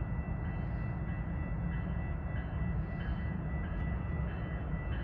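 A train approaching along the track: a steady low rumble with faint, steady high tones over it.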